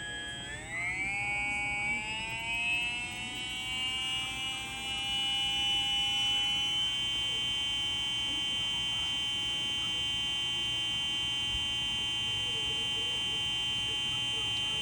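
Brushless 3660-size 2200 kV boat motor spinning with no load on a SkyRC motor analyzer: a high, many-toned electric whine that climbs in pitch over the first six or seven seconds as the motor spins up, then holds steady at full speed, a little over 16,000 RPM.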